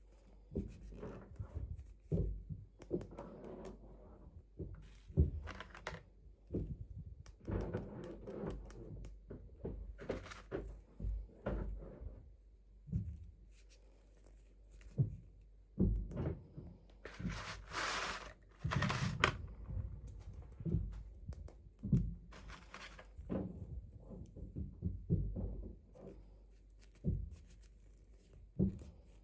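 Hands unboxing small plastic toy dolls: irregular soft knocks and taps as pieces are handled and set down, with a brief rustle of packaging about 17 to 19 seconds in.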